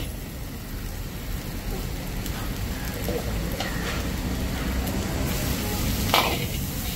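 Chopped onions sizzling steadily in a large iron kadai, a street-food wok. The cook's steel ladle scrapes the pan a few times, loudest about six seconds in.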